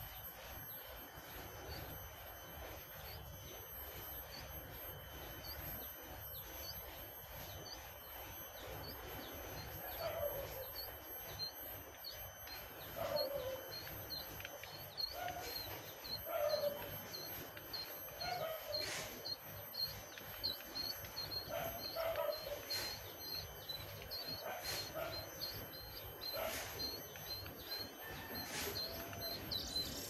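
Young jongkangan birds chirping over and over, short high chirps about twice a second. From about a third of the way in, a lower call repeats every second or two, and there are a few sharp clicks.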